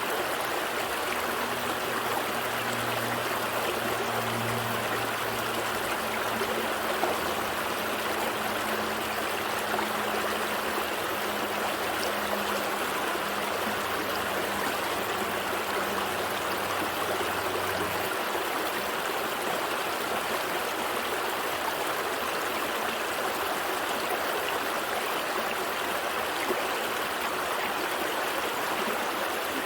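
A gentle stream flowing, a steady rush of water over rocks.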